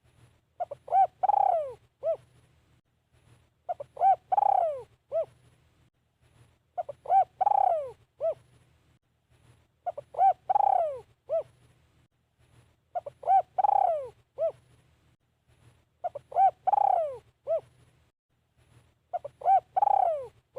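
Spotted dove, a caged decoy male, cooing its song over and over: a phrase of a few short coos around one longer note that rises and then falls, repeated about every three seconds.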